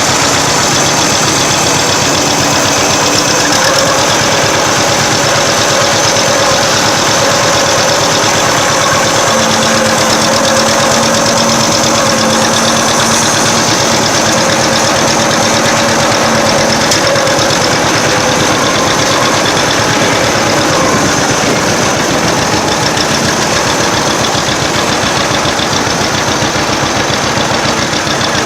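Vintage engine running steadily at close range with a fast, even knocking beat. A faint held tone sounds alongside it for several seconds in the middle.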